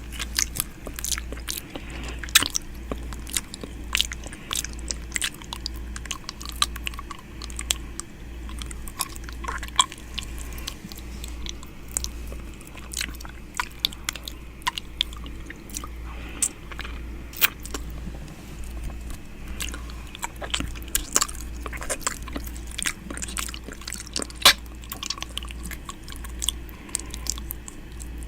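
ASMR 'ear eating' mouth sounds at very close range: lips, tongue and teeth nibbling and licking, a dense, irregular run of wet clicks and smacks.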